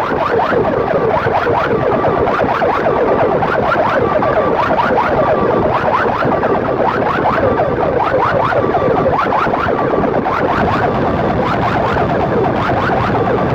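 Loud electronic siren-like warble: rapid rising chirps repeating several times a second, played through a large DJ speaker box.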